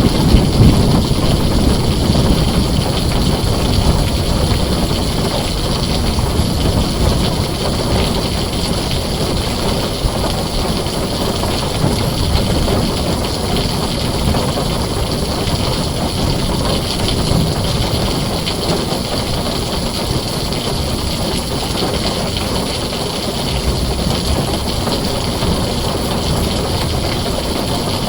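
Heavy rain falling steadily on a tin roof, with a low rumble of thunder fading out over the first few seconds.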